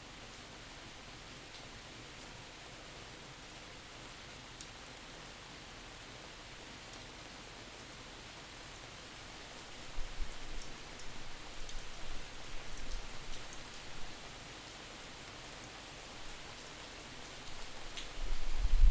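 Steady rain falling, a soft hiss with scattered drop ticks. About ten seconds in, and again near the end, distorted wind buffets the microphone with low rumbling gusts.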